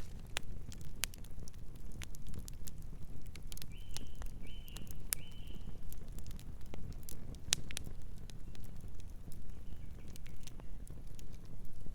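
Campfire burning with a steady low rumble and scattered sharp crackles and pops. About four seconds in, a bird gives three short chirps in quick succession.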